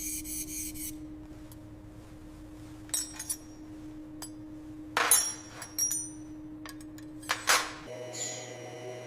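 A few sharp clinks and knocks of hard objects, metal or glass, each ringing briefly: one about three seconds in, a cluster around five to six seconds, and a last pair near the end. A faint steady hum runs underneath.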